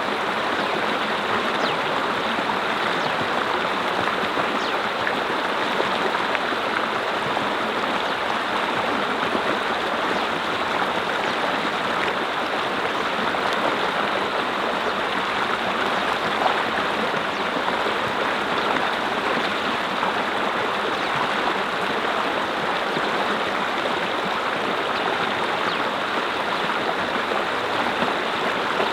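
Mountain brook flowing steadily over rocks, an even, constant rush of water.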